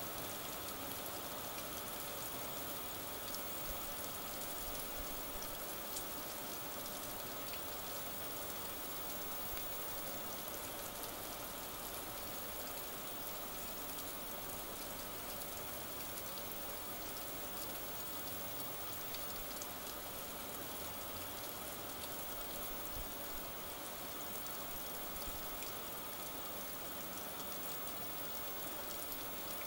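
Steady rain falling: an even hiss dotted with many small drop hits, with no thunder in this stretch.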